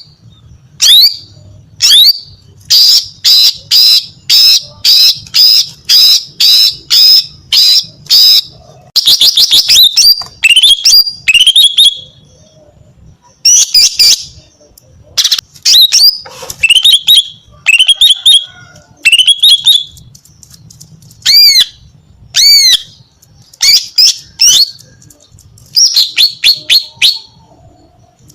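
Female cucak ijo (green leafbird) calling loudly in a lively chattering series: sharp repeated chirps at about two a second, then quick trills, down-slurred notes and arched whistles.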